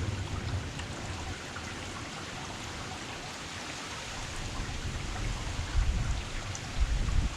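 Heavy rain falling steadily, a dense even hiss, with a low rumble swelling in the last couple of seconds.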